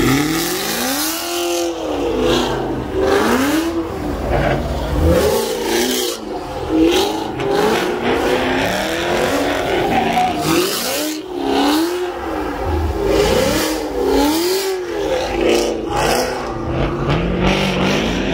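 Car engine revved hard again and again, its pitch rising and falling about once a second.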